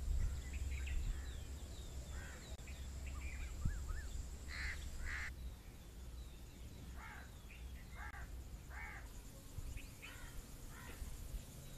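Outdoor birdsong: many small birds chirping, with a handful of louder, coarser calls between about four and nine seconds in, over a low steady rumble.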